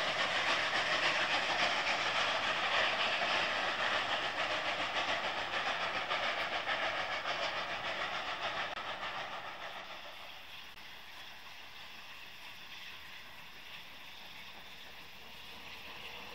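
Narrow-gauge steam train's passenger coaches rolling by with rapid wheel clatter on the rails. The clatter fades as the train pulls away and drops off about ten seconds in, leaving a faint steady rumble.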